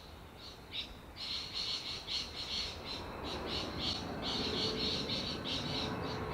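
Small birds chirping repeatedly and quickly. From about three seconds in, the engine noise of an approaching Boeing 717 jet on its takeoff grows steadily louder underneath, with a faint steady whine.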